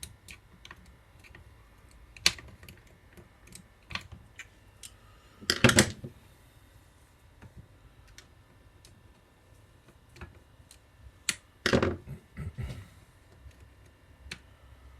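Scattered small clicks and taps of tools and parts being handled on a workbench, with two louder clattering bursts about six and twelve seconds in.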